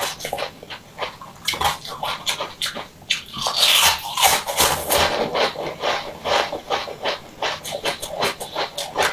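Close-miked wet chewing and slurping of a soft purple ring-shaped sweet, a run of quick irregular squelchy clicks, with a louder burst of biting and slurping about three and a half seconds in.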